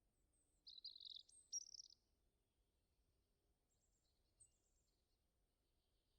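A small songbird singing one short, quick warbling phrase about a second in, then a few faint high chirps; otherwise near silence with a faint low rumble.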